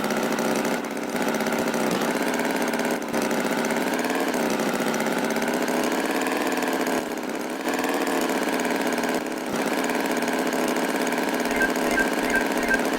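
Tractor engine sound effect running steadily at idle, its pitch wavering slightly, with a few brief dips in loudness.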